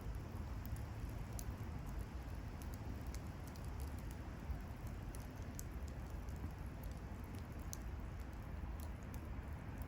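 Wood bonfire burning: irregular sharp crackles and pops from the burning wood over a steady low rumble.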